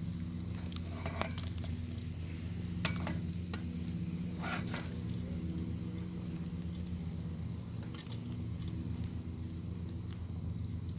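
Bacon sizzling in a pan over a crackling fire: a steady high sizzle with scattered sharp pops and crackles, the loudest cluster a little before the middle. A steady low hum runs underneath.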